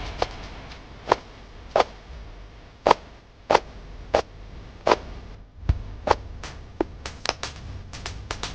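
A series of short, sharp clicks or snaps at uneven intervals, about one or two a second, over a faint low background hum.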